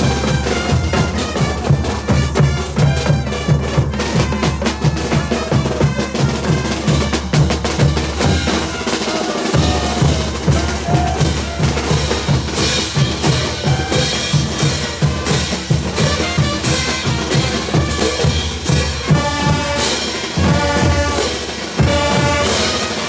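Band playing caporales music, with bass drum and snare keeping a driving beat under a loud melody.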